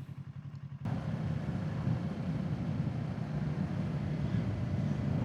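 Kawasaki Z650's parallel-twin engine running under way, heard from the rider's helmet mic, with wind and road noise jumping up suddenly about a second in and then holding steady.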